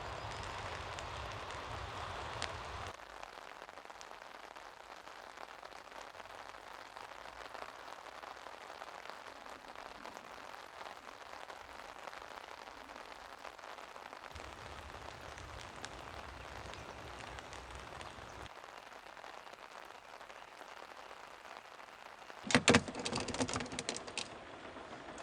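Steady rain pattering down, a little louder for the first few seconds. Near the end come a few sharp knocks and clatters.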